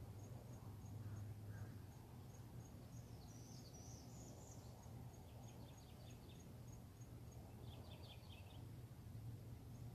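Faint outdoor ambience under a steady low hum: an insect chirps in an even high pulse about three times a second, a bird gives a short high call, and two quick rattling calls follow later.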